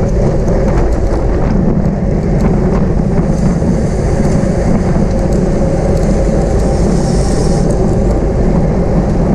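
Wind buffeting the microphone of a camera on a moving racing bicycle: a loud, steady rumble. From about three seconds in until nearly eight, a higher hiss joins it.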